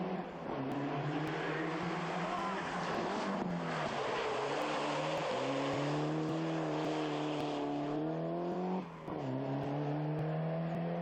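Rally car engine accelerating hard through the gears. Its note climbs, then drops sharply at each upshift: just after the start, about a third of the way in, and again near the end.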